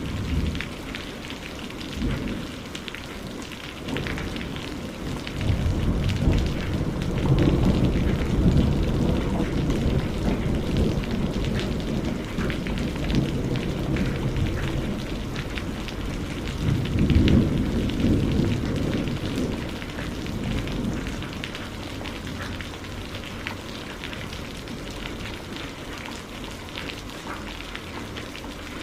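Steady rain with low rolls of thunder, the longest swelling from about five to twelve seconds in and another strong one around seventeen seconds.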